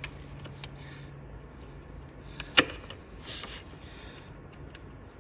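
Scattered light clicks and taps of hand tools on plastic wiring-harness connector clips being pried loose, with one sharp click about two and a half seconds in. A faint steady low hum lies underneath.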